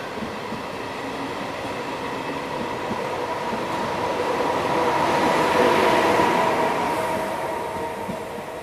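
Departing regional passenger train of MDVE/MDVC coaches accelerating past at close range, its wheels and running gear rumbling with a steady whine. The sound builds to its loudest about two-thirds of the way through as the electric locomotive at the rear goes by, then fades as the train pulls away.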